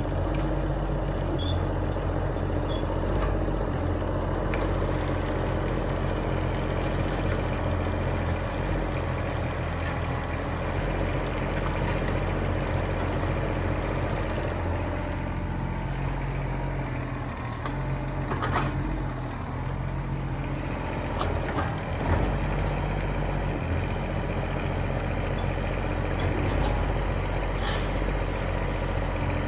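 Engine of heavy working machinery running steadily, with a couple of sharp knocks about two-thirds of the way through.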